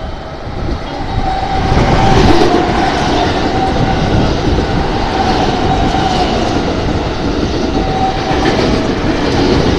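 JR West 223 series rapid train passing through a station at speed without stopping, its wheels running loud over the rails. The noise builds up over the first two seconds and then holds steady as the cars go by, with a thin high tone coming and going.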